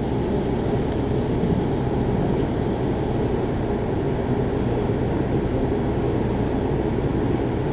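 Steady low rumble of aircraft engines muffled through the terminal window glass, holding even throughout.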